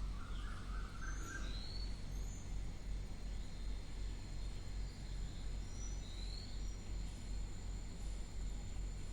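Steady low electrical hum with faint background noise, and a few short, faint high chirps scattered through it.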